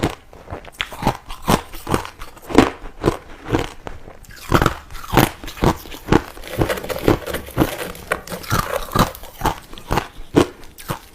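Crushed ice being bitten and chewed close to the microphone: a steady run of crisp crunches, about two a second.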